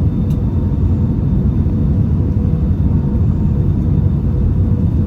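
Steady low rumble of an Airbus A320-200 heard from inside the passenger cabin, with a faint steady hum above it.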